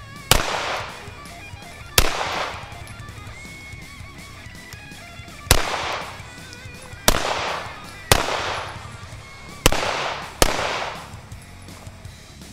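Seven pistol shots fired at uneven intervals, each with a short fading echo, over background music with guitar.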